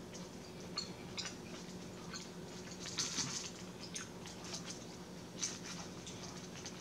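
Close-up eating sounds: wet chewing and lip smacks from a mouthful of shrimp salad, a scattering of short smacks and clicks, loudest about three seconds in, over a low steady hum.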